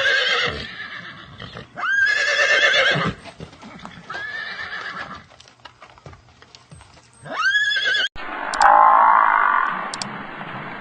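Horses neighing: several loud whinnies, each rising sharply and then held with a shaky, quavering pitch. After an abrupt cut near the end comes a rougher, noisier sound with a few clicks.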